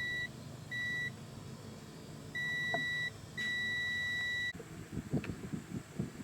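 Electronic beeper sounding a steady high tone four times in uneven lengths, from brief to over a second long. It cuts off abruptly about four and a half seconds in, and low rustling and knocking follows.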